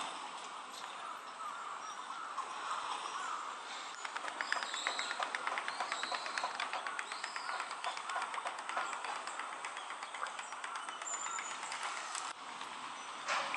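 Birds calling: short high arched calls over a steady background hum, with a fast run of ticking notes through the middle.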